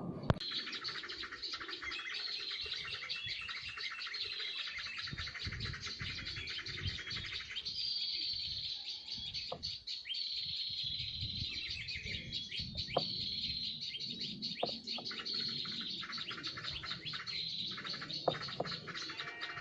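Small birds twittering and chirping densely, with a short high falling call that repeats every second or two. A sharp click sounds just after the start, and a few soft knocks come later.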